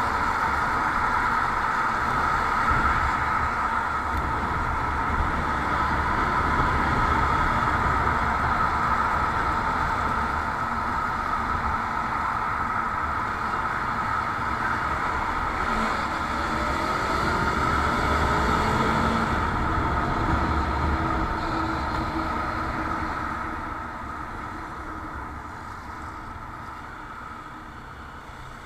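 Motorcycle engine running steadily on the move, with a briefly rising engine note midway. It gets quieter in the last few seconds.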